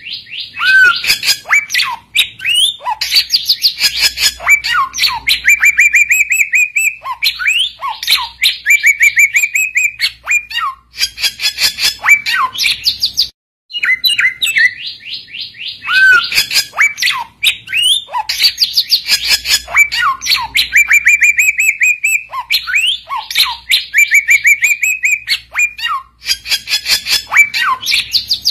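Samyong bird song, a busy run of rapid chattering trills and slurred whistles, played as a lure recording to call rival samyong. The same stretch of song repeats about every 13 seconds.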